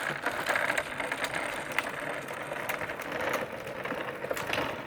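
A tractor being ridden: a steady, dense mechanical rattle of many small clicks, with no clear engine note.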